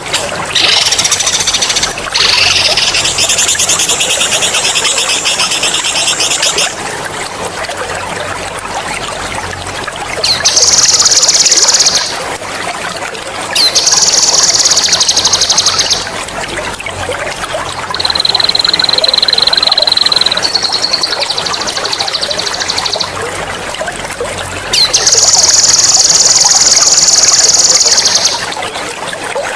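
A songbird singing long, rapid rolling trills, high-pitched, about seven bursts of two to four seconds with short gaps between them. A steady trickle of running water continues underneath.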